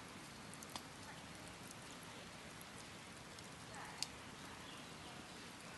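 Oak and beech campfire crackling: a steady low hiss with scattered sharp pops, the loudest about four seconds in.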